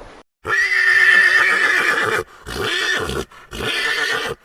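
Horse whinnying three times in a row, the first call the longest.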